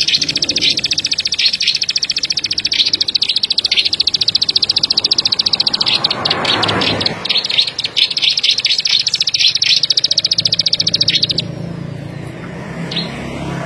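A ciblek padi (ciblek sawah), a small prinia-type songbird, singing a long, very fast, high clicking trill, the "klik-klik" song prized by its keepers. The trill breaks briefly about halfway with a short rushing noise, then stops well before the end, leaving a low hum.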